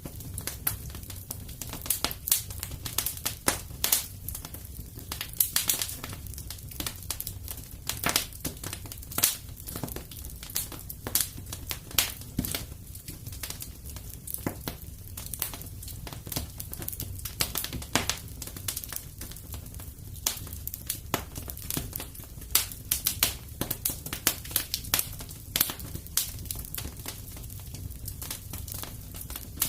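Fireplace fire crackling: frequent, irregular sharp pops and snaps over a low, steady rumble.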